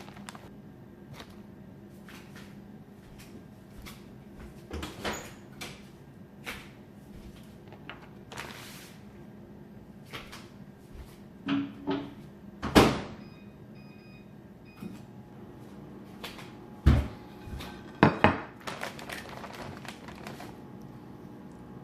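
Microwave oven door opened and shut with a sharp clunk, followed by a few short keypad beeps as it is set, amid scattered clicks and knocks of a plate being handled.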